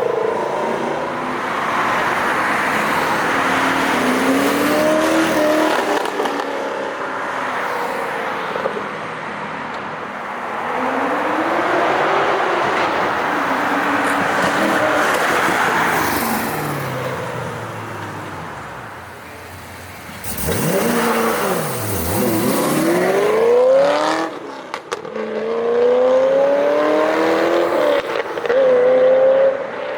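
Chevrolet Camaro Z28's 7.0-litre LS7 V8 through its exhaust, revving up and dropping back again and again, with a quieter lull about two-thirds of the way through before sharper climbs resume.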